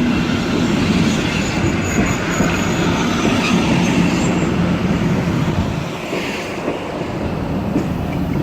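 Passenger train rolling in along a station platform, wheels clattering over the rails with a thin, high wheel or brake squeal. The low rumble eases about six seconds in.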